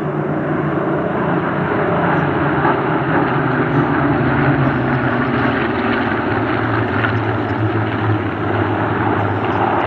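A formation of Spitfires passing, their V12 piston engines droning loudly, the pitch sinking slowly as they go by.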